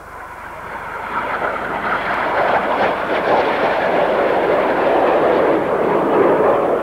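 Two BAE Hawk T1 jets passing low, their jet engines' rushing noise swelling over the first two seconds and then holding loud and steady.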